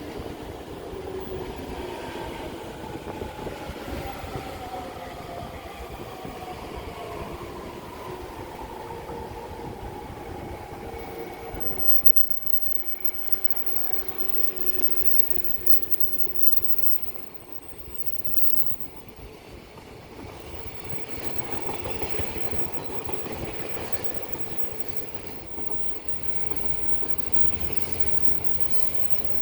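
Freight train of an EF210 electric locomotive and 24 Koki container wagons running through, with steady rolling wheel noise and rail clatter. A faint whine falls in pitch over the first dozen seconds, then the sound drops a little and swells again about two-thirds of the way in.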